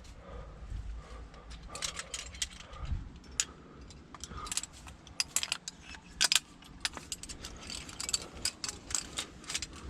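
Metal climbing gear such as carabiners and quickdraws clinking and jangling in many quick, irregular clicks.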